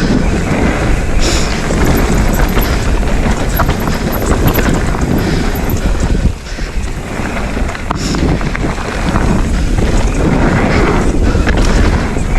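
Wind rushing over the camera microphone as a Specialized Stumpjumper Evo mountain bike rides a dirt trail, with tyre noise and scattered knocks and rattles from the bike over rough ground. The noise eases briefly about halfway through.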